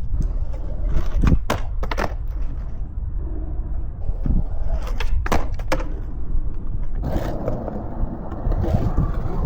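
Skateboard wheels rolling on concrete, with a handful of sharp clacks as the board pops and lands. Near the end a denser steady noise joins in.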